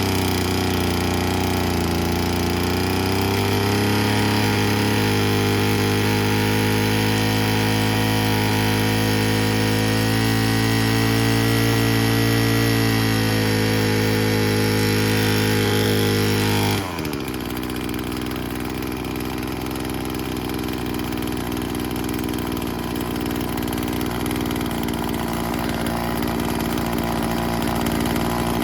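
Stihl FS36 string trimmer's small two-stroke engine idling steadily after its low-speed mixture screw has been adjusted, the pitch wavering slightly. About 17 seconds in the sound changes abruptly to a lower, somewhat quieter running note.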